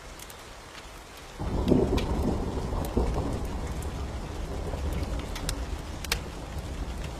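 Thunder breaks about a second and a half in and rolls on, slowly fading, over steady rain. Scattered sharp crackles of a wood fire are heard throughout.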